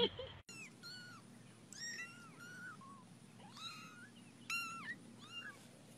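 Young kitten mewing over and over: a string of short, high, thin mews, about two a second.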